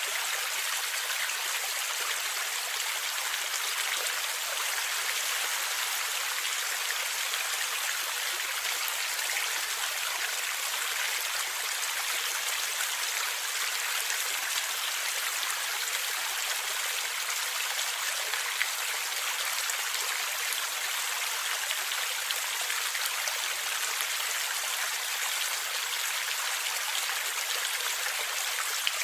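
Water flowing and gurgling in a stream, a steady, unbroken rush.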